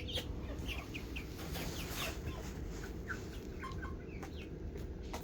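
A flock of ten-week-old chickens peeping and clucking, with many short high calls scattered through, over a steady low background noise.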